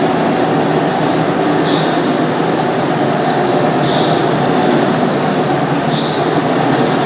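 Floor polishing machine running steadily, buffing a marble floor with a handmade buff of wax-mixed cedar sawdust. A faint higher swish comes back about every two seconds.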